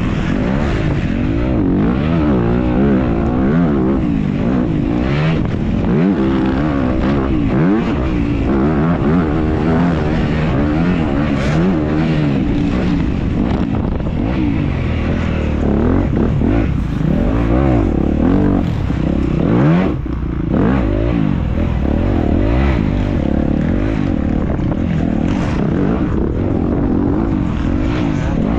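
Dirt bike engine revving up and down without a break as the bike is ridden hard, the pitch climbing and dropping every second or two, over a heavy low rumble.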